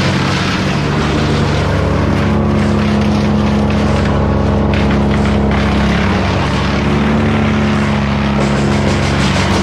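A steady engine drone at constant speed.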